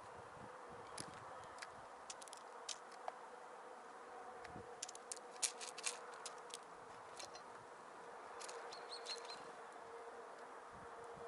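Small songbirds at a winter feeder giving short, high chirps and call notes, scattered through and thickest around the middle, over a faint steady hum.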